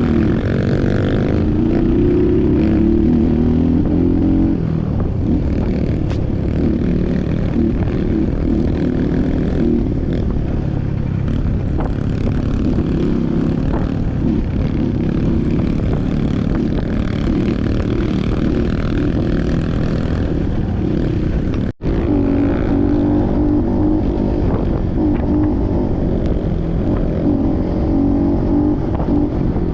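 Trail motorcycle engine running while riding, its note rising and falling with the throttle. The sound breaks off for an instant about three quarters of the way through.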